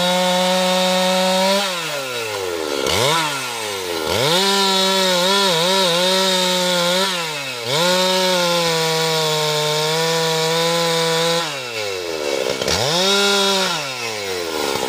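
Husqvarna two-stroke chainsaw revved to full throttle four times, each burst held for one to four seconds before the engine drops back toward idle. Its speed wavers and sags slightly during the longer bursts as the chain cuts into the teak wood.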